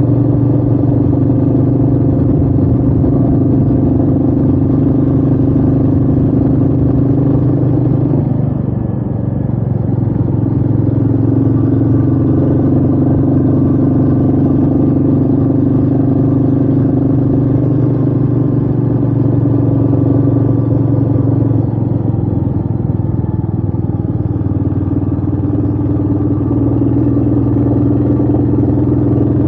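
Royal Enfield Meteor 350's single-cylinder engine running steadily under way, with wind noise. The engine note dips and drops in pitch about eight seconds in, then settles back, and eases slightly a little past twenty seconds.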